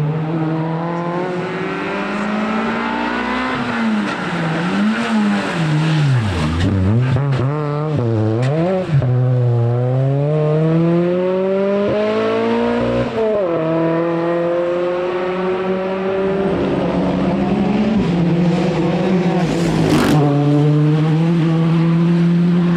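Rally car engine on a stage, its revs dropping and climbing several times through lifts, braking and gear changes, then holding a steady high note. There is a sharp crack near the end.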